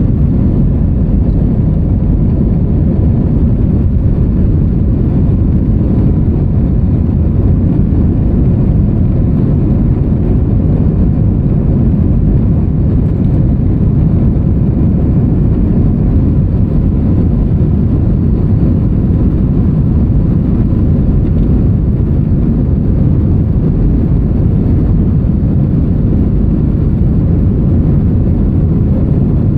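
Steady cabin noise inside an Airbus A321-200: a loud, even low rumble of the engines and airflow.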